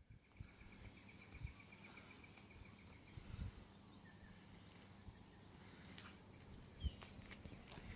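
Insects trilling in a steady high-pitched chorus, with a second, lower pulsing trill for the first few seconds. A few faint low thumps sound over it.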